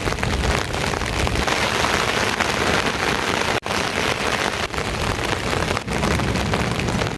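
Heavy rain falling, a dense steady hiss and patter, broken by brief dropouts about every second near the end.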